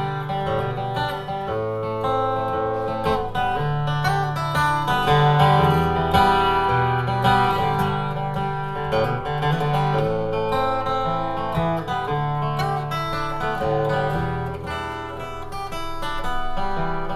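A live band playing the instrumental introduction of a folk song: guitar strumming over low, held bass notes that change every second or two.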